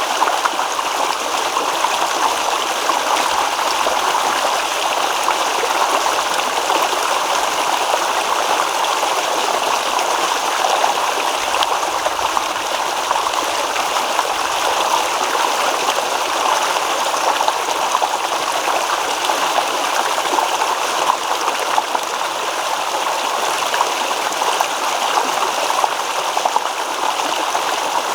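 Shallow stream babbling and rippling steadily over rocks, a continuous even rush of water.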